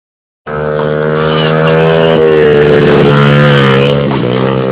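Small 50cc dirt bike engine running hard at steady high revs, close by, its pitch dipping briefly about two seconds in and again near the end.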